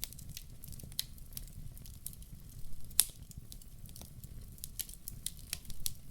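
Wood fire crackling: irregular sharp pops and snaps over a low steady rumble of the flames, with one loud pop about three seconds in.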